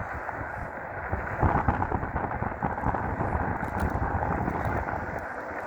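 Wind buffeting the microphone on a moving e-bike, a rough, steady rumble that swells louder from about a second and a half in for a few seconds, mixed with road and tire noise.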